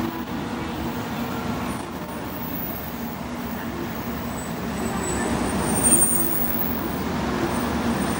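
N700-series Shinkansen train running in along the platform as it slows to stop at the station, a steady rumble of wheels on rail with a low hum. A brief high-pitched squeal peaks about six seconds in, the loudest moment.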